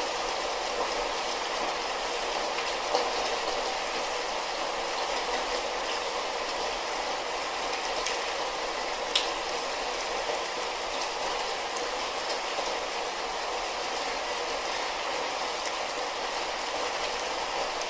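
Light rain falling in a steady hiss, with a few sharper drop hits, the clearest about nine seconds in.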